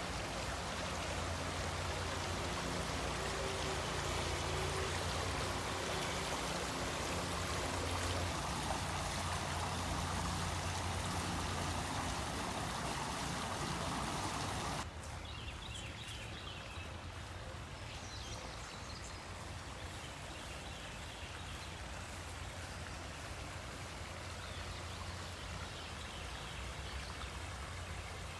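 Creek water flowing steadily. About halfway through the sound cuts to a quieter, thinner stretch of the flow, with faint high chirps over it.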